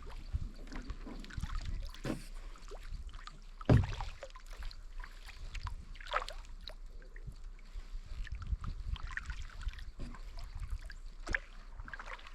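Kayak paddling: paddle strokes splashing and dripping, with scattered knocks against the kayak, the loudest about four seconds in, over a low rumble.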